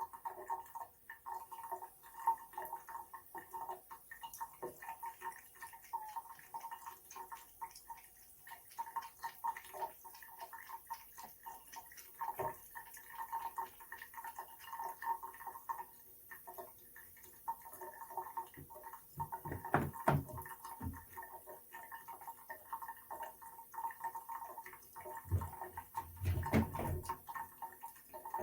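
Water trickling and dripping from a faucet, with many small irregular drip clicks over a steady ringing tone. There are two dull low thumps, one about two-thirds of the way through and one near the end.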